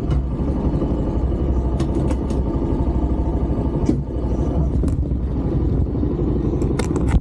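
TVS Star 150 motorcycle's single-cylinder engine running at low speed with a steady low rumble, with a few sharp clicks and knocks.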